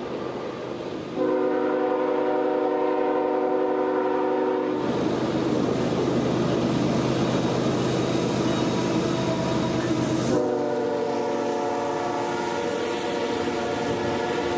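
Canadian Pacific diesel freight locomotive's horn sounding a long, several-toned blast, then a loud rush of locomotive and train noise with no horn. About ten seconds in, the horn comes back on for another long blast.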